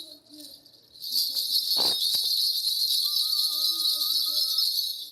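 Continuous high jingling, like small bells being shaken. It stops for about a second at the start, then starts again, with a faint voice murmuring underneath.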